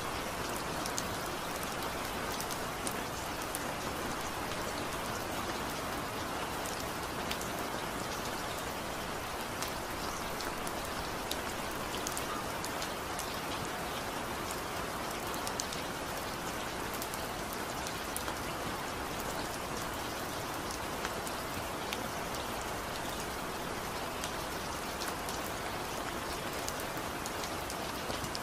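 Steady rain: an even hiss of falling rain with many small drop ticks scattered through it, unchanging throughout.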